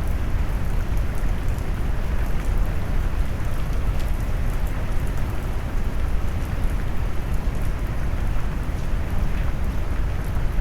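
Rain mixed with brown noise: a deep, steady noise weighted to the low end, with a faint patter of drops ticking on top.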